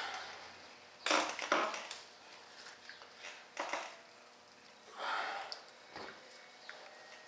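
Several short bursts of crackling and rustling as materials are handled during a fibreglass tube layup, the loudest a double burst about a second in, with smaller ones near the middle and about five seconds in.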